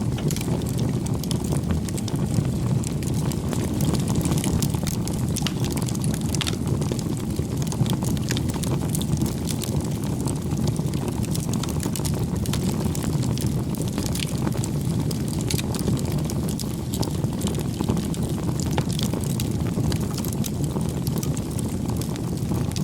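Wood fire burning: a steady low rumble with many small, irregular crackles and pops.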